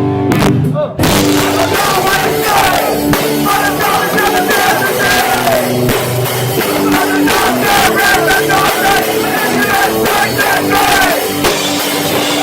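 Live heavy rock band playing loud, recorded with heavy distortion through a cheap phone microphone. A lone guitar gives way about a second in to the full band crashing in, with shouted vocals over it.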